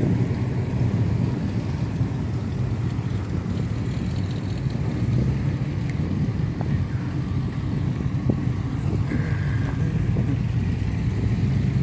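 Muscle car engines running at low speed, a steady low rumble with no big revs.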